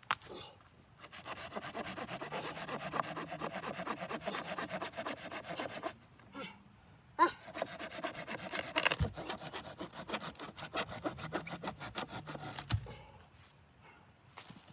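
Rapid rasping strokes in two bouts of several seconds each, with a short pause between them and a couple of sharp knocks.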